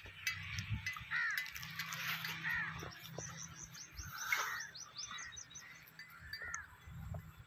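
Birds chirping and calling, faint: short arched chirps scattered throughout, with a quick run of high, falling notes about three seconds in.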